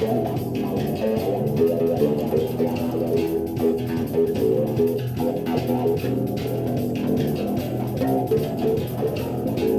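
Improvised instrumental jam on a bass guitar: a continuous run of quickly changing plucked notes, mostly in the low-middle range, with no vocals.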